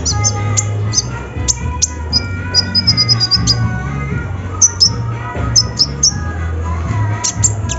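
Kolibri ninja, a sunbird, singing: short sharp high chirps with a quick run of repeated high notes a few seconds in, over background music with a steady bass.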